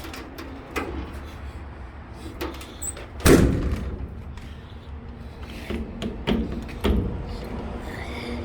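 Metal compartment doors on a service-truck body being unlatched and handled: latch clicks and knocks, one loud slam about three seconds in and two smaller bangs later.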